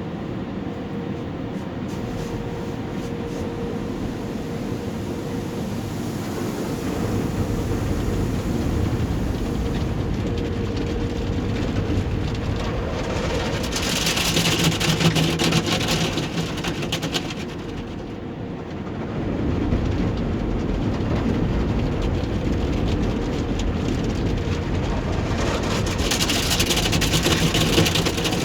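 Automatic tunnel car wash equipment working around a truck, heard from inside the cab: a steady mechanical rumble, with two louder stretches of hissing spray, one about halfway through and one near the end.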